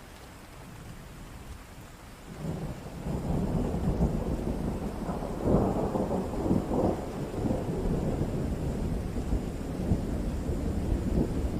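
Thunder rumbling over steady rain: a low rumble swells in about two seconds in and keeps rolling, loudest a little past the middle.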